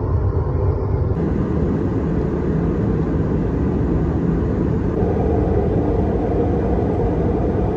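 Steady cabin noise of an Airbus A319 airliner in flight: an even, low rush of engine and airflow noise through the fuselage.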